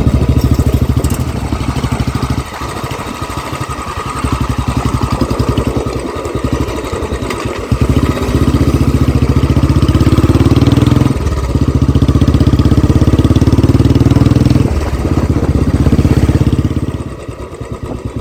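Royal Enfield Classic 350's single-cylinder engine running through an aftermarket Barrel Exhaust (Canon model) silencer, with its deep thumping exhaust note. The revs rise and fall. It is quieter for a few seconds early on, then loud in three rising stretches in the second half, each cut off by a sudden drop.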